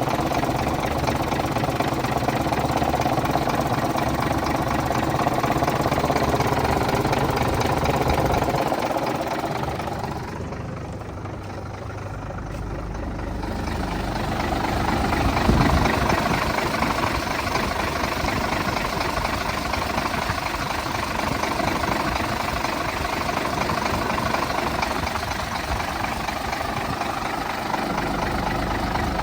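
International 4900 dump truck's diesel engine idling steadily and running smoothly. A single thump sounds about halfway through.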